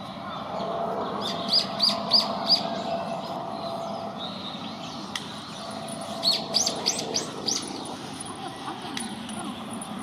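Japanese white-eye calling in two runs of short, high chirps: four notes a little over a second in, then five or six more past the middle, over steady background noise.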